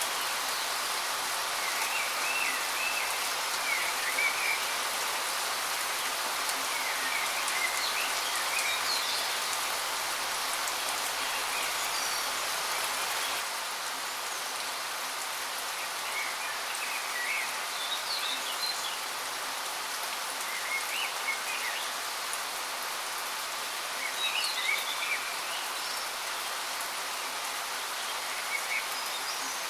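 Steady rushing of a waterfall, with songbirds chirping in short, scattered phrases over it. The water noise steps down slightly about 13 seconds in.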